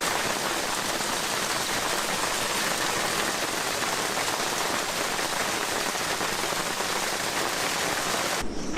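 Heavy storm rain pouring down, a steady even hiss that cuts off abruptly near the end.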